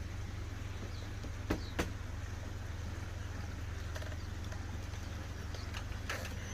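A steady low hum, with two sharp clicks close together about a second and a half in and a fainter knock near the end.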